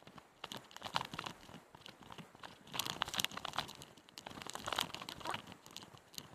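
Irregular crunching and scraping, a run of uneven sharp crunches with no steady rhythm.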